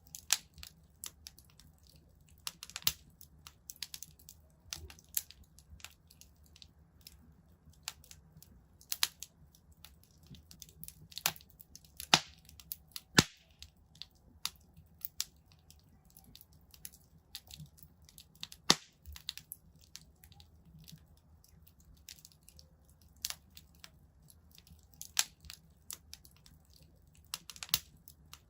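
Wood fire crackling in a fireplace: irregular sharp pops and snaps, a few louder ones about halfway through, over a faint low rumble.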